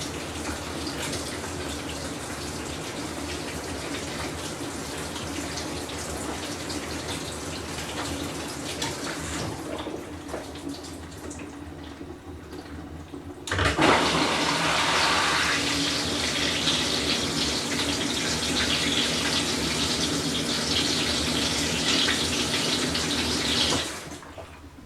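Whirlpool Cabrio top-load washer running with water flowing over a steady hum. About halfway through, a loud rush of water starts suddenly, like the fill valve opening, and it cuts off shortly before the end.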